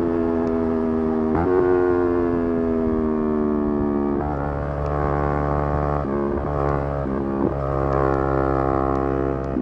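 Yamaha R3's parallel-twin engine running hard at high revs, its pitch sinking slowly between several sudden shifts as gears are changed.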